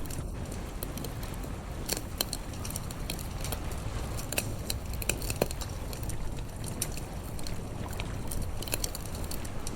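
Campfire crackling, with irregular sharp pops and snaps of burning wood over a steady low rumble.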